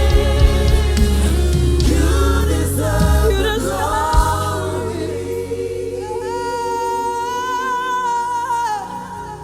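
Live gospel worship music: singers over a band with bass and drums. About four seconds in the bass and drums drop away, and a voice holds one long note over soft backing that fades near the end.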